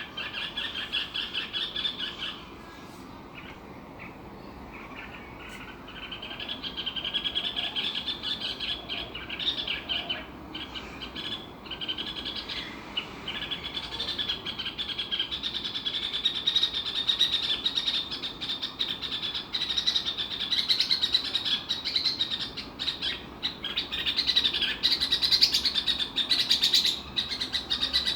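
Small songbird known locally as the cicitcuit, chirping in long runs of fast, high-pitched notes, with a lull of a few seconds about two seconds in, then steady chirping that grows louder near the end.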